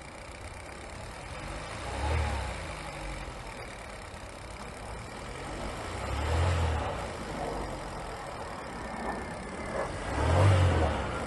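Kia K3 engine blipped three times from idle, with a ratchet-like crackling knock from the engine. The cause could be anything from something minor to a broken or scored piston.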